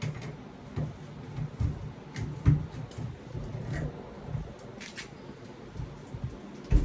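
Scattered knocks, clunks and sharp clicks of hands and tools working on a Sloan flush valve. The loudest knocks come about two and a half seconds in and right at the end.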